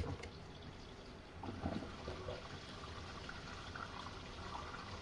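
Portable twin-tub washing machine draining its wash tub: a faint, steady trickle of wash water running out, with a short click right at the start.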